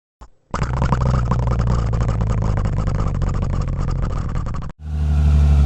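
Truck engine sound effects: an engine starts about half a second in and runs, then cuts off abruptly and is replaced by a second, deeper engine sound running steadily.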